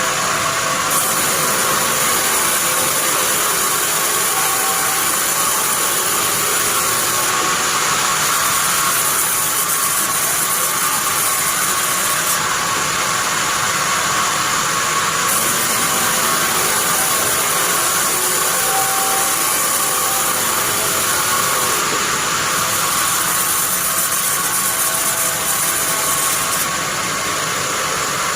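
Band sawmill running steadily as it saws pine, a loud even hiss and whine, with the highest part of the hiss dropping away and coming back several times.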